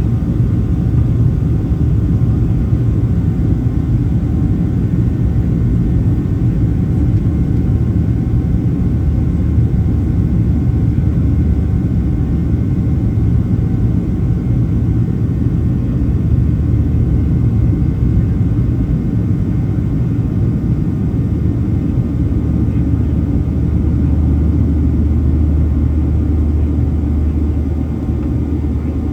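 Boeing 737-700's CFM56 jet engines heard from inside the cabin as a steady low rumble, deepening slightly about two thirds of the way through.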